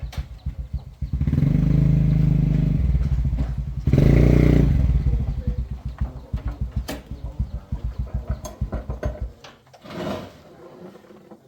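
Motorcycle engine running and revved up twice, the second rev the loudest. It then drops back to a quicker, weaker idle beat and cuts out near the end.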